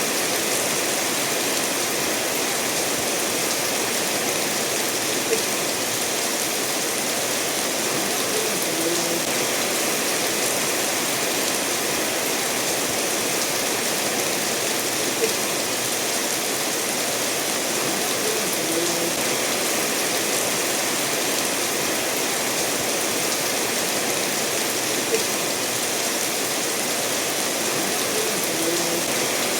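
Steady rainfall mixed with a river flowing over stones, an even rushing hiss. A light tick sounds about every ten seconds.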